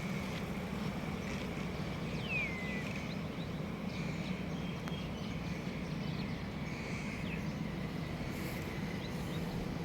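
A bird gives one short falling whistle about two seconds in, with a few faint chirps later, over a steady low rumble of background noise.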